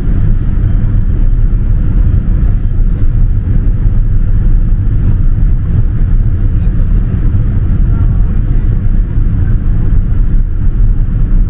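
Steady low roar of a Boeing 787-9 cabin in flight during descent: airflow and engine noise heard from inside the cabin.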